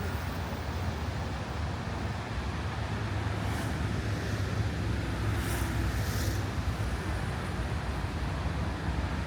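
Scania Castrosua New City city bus running with a steady low engine rumble amid street traffic noise, with short hissing bursts about three and a half, five and a half and six seconds in.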